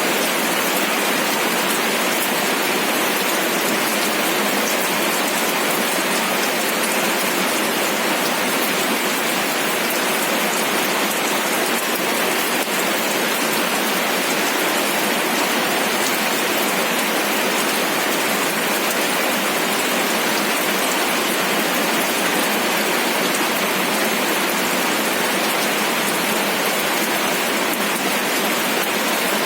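Steady rain falling, with the patter of many fine drops hitting surfaces and no thunder.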